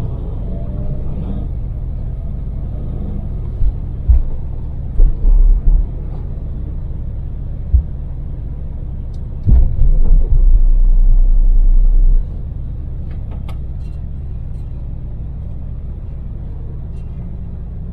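Daewoo Damas microvan's LPG-fuelled three-cylinder engine and road noise, heard from inside the cab while cruising: a steady low rumble. Several loud low thuds come about four to six seconds in, and a louder low rumble lasts about two and a half seconds from nearly ten seconds in.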